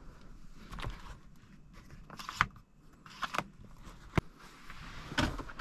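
A handful of short, sharp clicks and knocks from someone handling parts of a car's cabin, spread out over a few seconds against a faint background.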